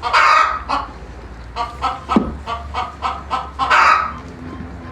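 Hen cackling the egg song: runs of short clucks, each ending in a louder drawn-out squawk, twice. The sign that a hen has just laid an egg.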